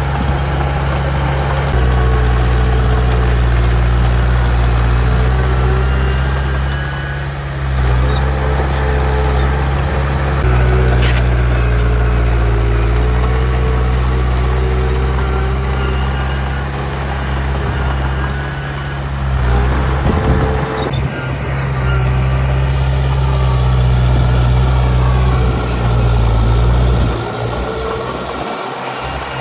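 Heavy diesel engine of earthmoving machinery running steadily with a deep drone, easing off and picking up again a few times.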